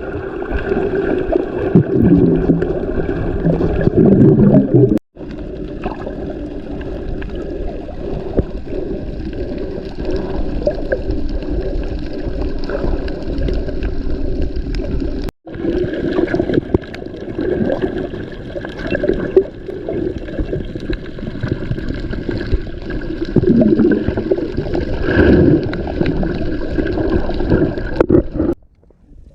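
Underwater sound picked up by a snorkeler's camera: muffled gurgling and bubbling of seawater. It drops out abruptly twice in the middle and once near the end, where clips are joined.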